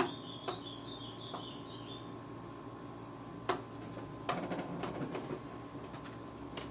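Sharp metallic clicks and taps of a small screwdriver working at screws inside an opened PlayStation 3, with a cluster of clicks about four to five seconds in. A brief run of high chirps in the first two seconds and a faint steady hum lie underneath.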